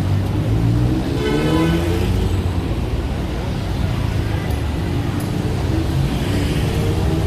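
Busy city-street traffic noise: a steady rumble of passing cars and buses, with indistinct voices and a brief high-pitched tone about a second in.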